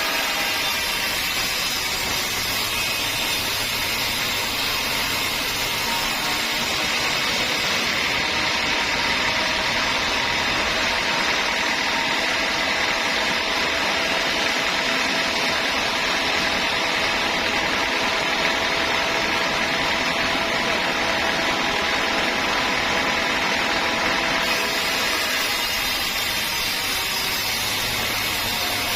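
Homemade band sawmill running steadily, its blade sawing through a teak log with a continuous machine whine.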